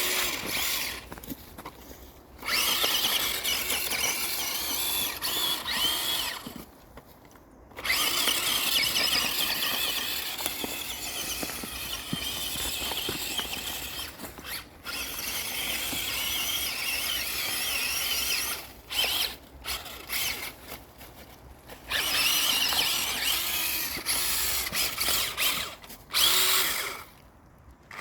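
Spin Master Grave Digger tracked RC toy truck driving: its small electric motor and gearbox whine in long runs, wavering in pitch, with several short pauses between runs.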